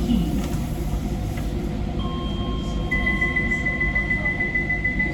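Docklands Light Railway train running along the track, heard from inside the front of the car: a steady low rumble. About three seconds in, a steady high-pitched tone joins it and holds.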